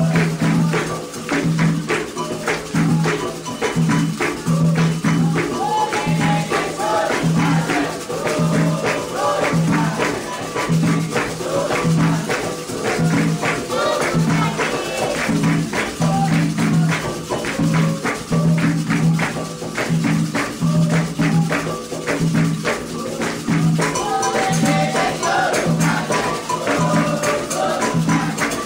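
Candomblé ritual music: atabaque hand drums beating a fast, steady rhythm with shaken and struck percussion over it, and voices singing a chant.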